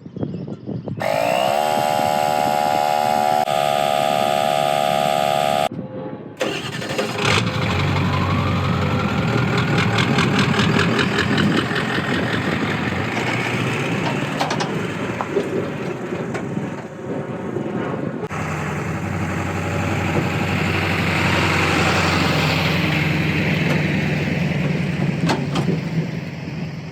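A truck engine starting and running: a high whine rises over several seconds, then it settles into a steady low running sound. Before that, a few seconds of steady stacked tones end abruptly.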